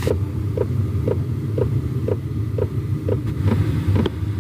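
A 5 kW Chinese diesel heater running: its fuel dosing pump ticks about twice a second over the steady hum of its fan. The heater is pumping fuel through to clear itself after losing power.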